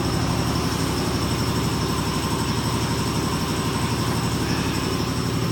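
A machine running steadily: a low, rapidly pulsing drone with a thin high whine above it, with no change in pitch or level.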